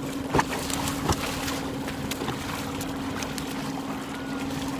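Wind and water noise from a boat on the water, under a steady low hum, with two sharp knocks about a second apart near the start.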